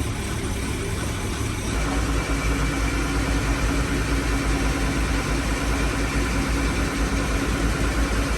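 Boat engine running steadily, picking up and running louder with a steady hum from about two seconds in.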